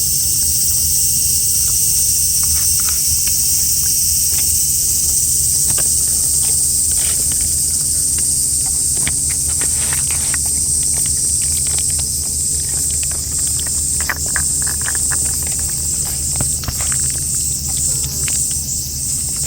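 Steady outdoor insect chorus, high and continuous, over a low steady hum, with many small clicks and ticks scattered through it.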